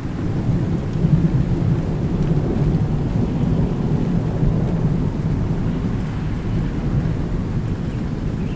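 Thunder rolling in a long, low rumble over steady rain.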